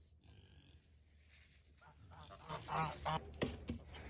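Domestic geese honking, a short run of calls about two and a half seconds in, followed by a few light knocks.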